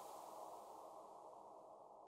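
Faint steady hiss of heavy rain fading out, dying away to near silence by about a second and a half in.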